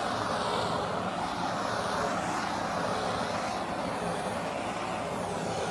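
Handheld gas torch burning with a steady rushing hiss as its flame is passed over wet acrylic pour paint to bring up cells.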